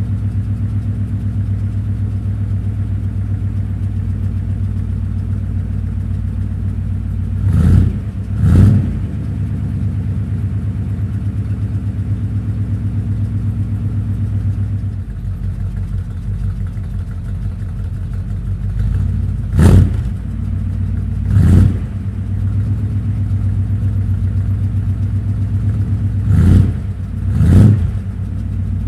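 1966 Dodge Coronet's 318 small-block V8 idling at the exhaust while still warming up after a cold start. Three times it is given a pair of short throttle blips, each rev rising and falling back to idle.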